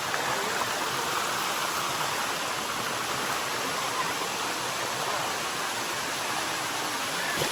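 Bua Tong sticky waterfall: a steady rush of water cascading down the falls.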